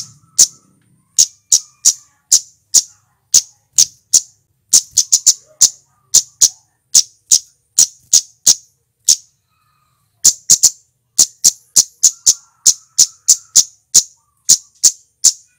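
Male flowerpecker (cit keres) calling: a rapid series of sharp, high chips, about two to three a second, with a pause of about a second two-thirds of the way through.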